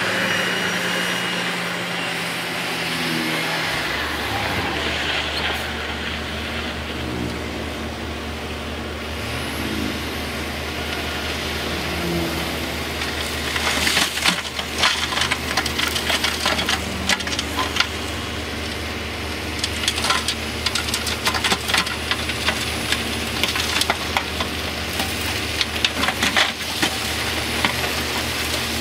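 Diesel engines of heavy earthmoving machinery running steadily, the engine note shifting about four seconds in. From about halfway through come dense, rapid clattering knocks of rock and steel.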